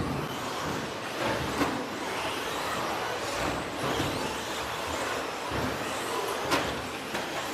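Radio-controlled electric stadium trucks with 13.5-turn brushless motors racing on a dirt off-road track: a steady mix of motor whine and tyre noise, with sharp clacks about one and a half and six and a half seconds in.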